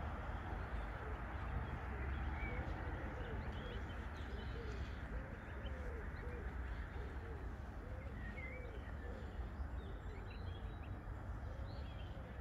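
Birds calling: a run of short, low, repeated calls and a few high chirps over a steady low rumble of outdoor background noise.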